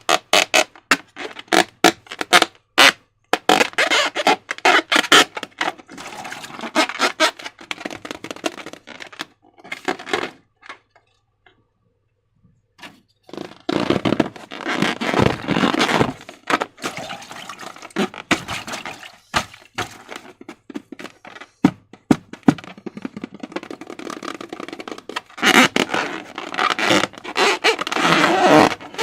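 Slime being worked by hand close to the microphone, giving irregular crackling clicks and squelches, with a pause of a few seconds near the middle.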